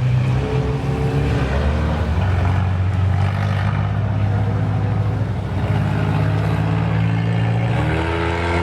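Claimer race car engines running steadily, with an engine revving up a little over a second in and again near the end.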